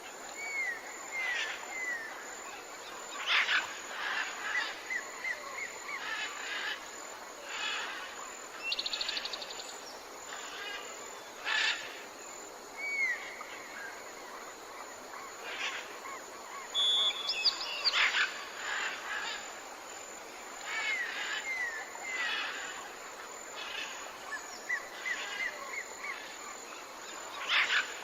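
Birds calling over a steady outdoor hiss: short down-curving whistled notes in quick runs of three or four, sharp single calls, and now and then a brief rapid trill.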